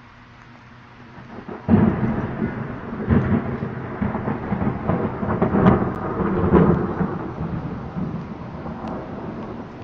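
Thunder: a clap that breaks suddenly about a second and a half in, then rolls on as a long rumble with several swells, slowly dying away over light rain.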